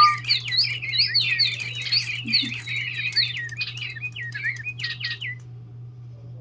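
Several DigiBirds electronic toy birds chirping together in quick, overlapping high warbles, stopping about five seconds in. A steady low hum runs underneath.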